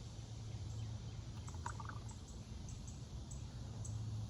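Quiet outdoor background: a steady low hum, with a brief high chirp about a second and a half in and faint scattered ticks.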